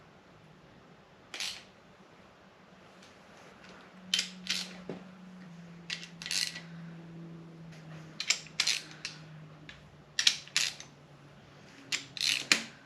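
Hand ratchet wrench clicking in short bursts of a few strokes each, snugging the valley cover bolts on an LS 6.0 V8 by hand rather than with an impact gun.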